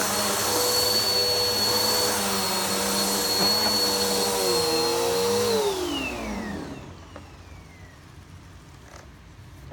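Vacuum cleaner running on carpet, then switched off about five and a half seconds in, its motor whine falling in pitch as it spins down to a stop.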